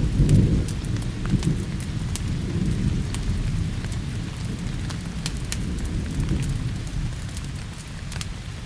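Thunder rumbling, loudest at the start and slowly dying away, over steady rain. Scattered sharp crackles from a wood fire run through it.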